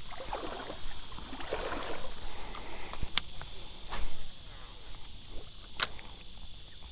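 Steady insect buzz over the creek, with a splashy, rustling stretch in the first two seconds and three sharp clicks later on, the loudest about four seconds in.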